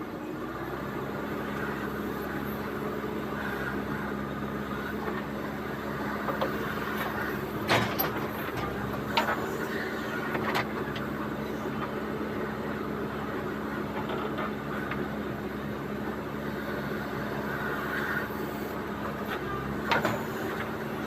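JCB 3DX backhoe loader's diesel engine running steadily under work, with a few sharp knocks, about four of them, as it digs and loads.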